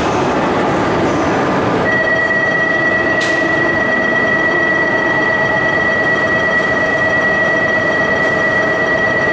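Shinkansen train running loud and steady at the platform. About two seconds in, a steady high-pitched tone with overtones joins it and holds flat without changing pitch.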